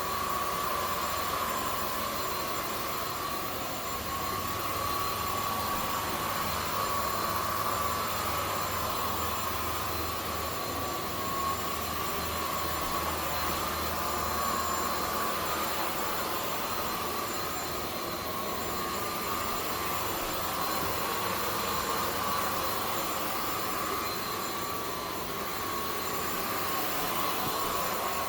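Zoker A10 Pro cordless stick vacuum running on its highest power setting, a steady high whine over the rush of air, as it is pushed over carpet.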